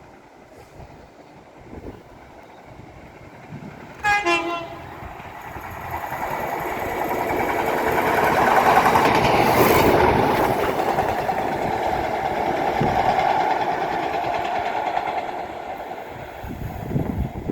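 A train sounds a short horn blast about four seconds in, then runs past, the rumble of its wheels and engines building to a peak midway and fading away.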